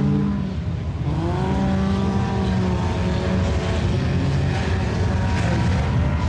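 Several IMCA Sport Compact race cars' four-cylinder engines running on the dirt oval, with one engine rising in pitch as it accelerates about a second in.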